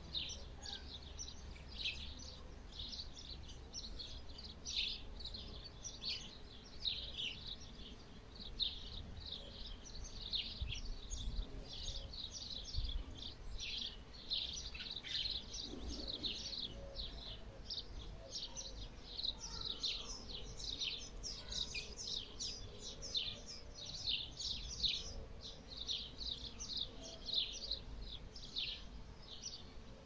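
Many small birds chirping and twittering in short, high, quick notes, busier in the second half, over a low steady rumble.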